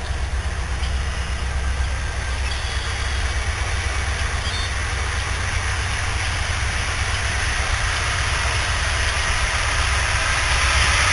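Norfolk Southern train approaching, its diesel locomotives' rumble and rail noise growing steadily louder.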